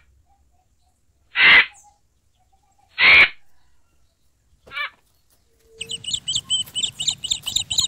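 Birds calling: two loud, harsh calls about a second and a half apart, a short call, then from about six seconds in a fast run of high, repeated chirps.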